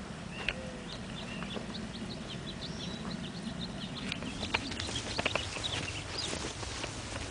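Bird chirping in a quick series of short high notes, several a second, over a steady low rush. Scattered sharp clicks and crunches follow in the second half.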